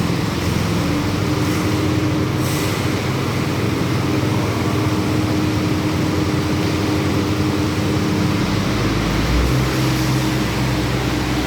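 Concrete power trowel's small petrol engine running steadily while the machine smooths a concrete floor. A deeper hum joins about eight and a half seconds in.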